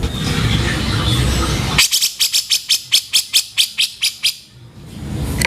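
Cucak jenggot bulbul giving a rough chattering call: a rapid run of about fourteen sharp, harsh notes at roughly five or six a second, starting about two seconds in and stopping shortly before the end, over a noisy recording background.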